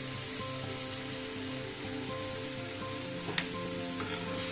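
Tomato chutney mixture sizzling steadily in a stainless steel frying pan over the gas flame, with a single sharp click of the spatula against the pan about three and a half seconds in.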